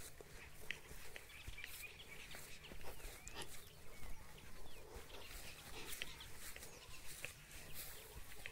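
Birds chirping in short, scattered calls, with faint clicks and rustles over a low steady rumble.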